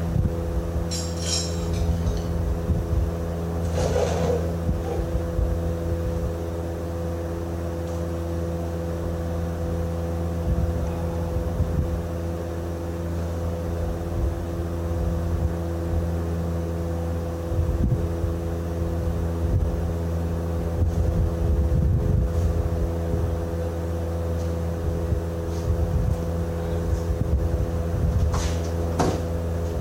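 An engine running steadily at constant speed, with a few brief metallic clinks of tools or parts.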